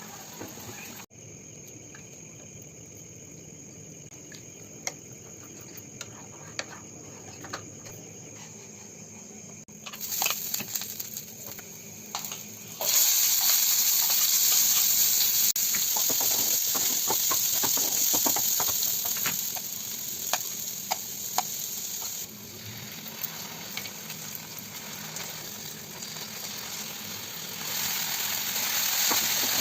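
Food sizzling in hot oil in a pan, with scattered clicks of a utensil against the pan. The sizzle is faint at first and turns loud and steady about a third of the way in.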